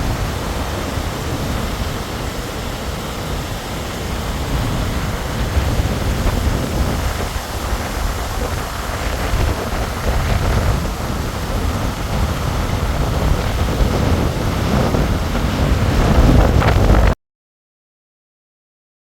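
Rushing river water at a falls and dam, an even roar with wind buffeting the microphone in gusts. It cuts off abruptly to silence near the end.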